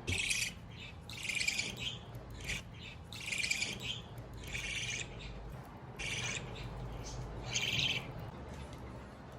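Budgerigar chick calling: a series of about seven short calls, each under a second long, with short gaps between them.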